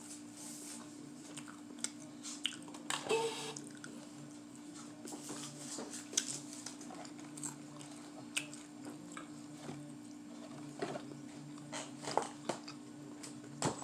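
Chewing and biting into fried chicken strips, with scattered small crunches and clicks, over a steady low hum.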